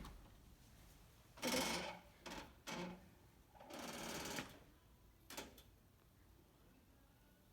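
Trapped birds' wings fluttering in short rapid bursts, three or four times, as they fly about.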